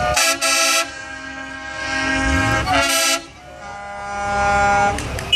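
Horns of passing convoy trucks sounding: a short loud blast at the start, another about three seconds in, and a longer blast that swells near the end.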